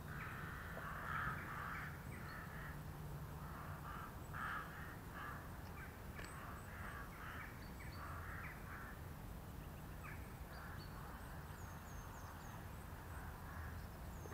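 Faint birds calling over and over in short, rough bursts, with a few thin high chirps near the end, above a steady low rumble.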